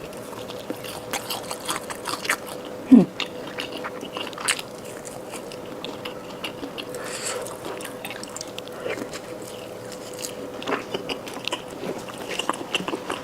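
Close-up eating sounds: biting into and chewing a crispy deep-fried chicken cutlet, with irregular crunches throughout. A faint steady hum sits underneath.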